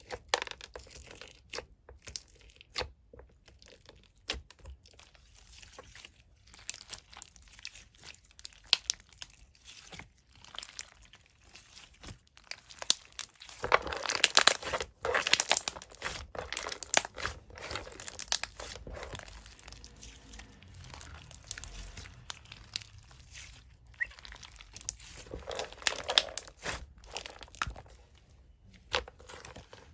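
Slime being squished and pressed by hand: a run of small crackling clicks and pops, thicker and louder for a couple of seconds about halfway through.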